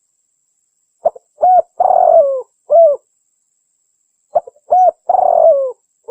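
Spotted dove cooing in two phrases about three seconds apart. Each phrase is a brief note, a clear coo, a longer rough coo and a falling final coo, and another phrase begins at the very end. It is a recorded lure call, said to be a female calling a male.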